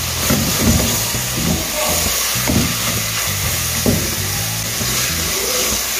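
Diced onion and tomato sizzling in oil in a hot metal pot, stirred and scraped along the bottom with a silicone spatula; a steady hiss with a few short scrapes.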